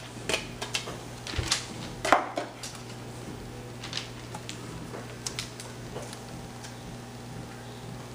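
Small hard objects being handled: a run of sharp clicks and knocks, the loudest about two seconds in, thinning out to occasional ticks. A steady low hum runs underneath.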